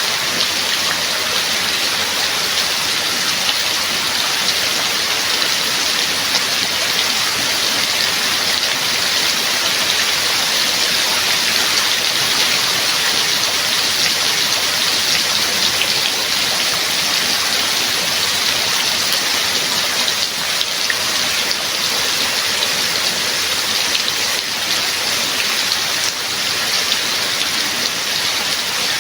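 Steady heavy rain falling, a dense even hiss of drops with fine pattering.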